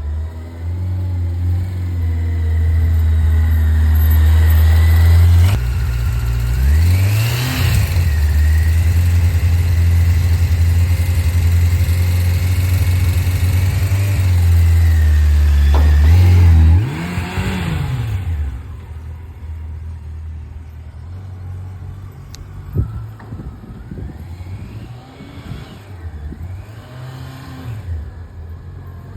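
Yamaha FJR1300's inline-four engine running at a steady low speed during slow-speed riding. The revs rise and fall briefly about six seconds in and again at about seventeen seconds, then the engine runs quieter, with a few small rev rises near the end.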